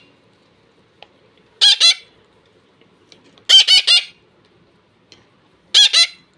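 Pet parrots squawking in quick runs of short harsh calls: two about one and a half seconds in, about four near the middle, and two more near the end. The birds are calling for food at feeding time.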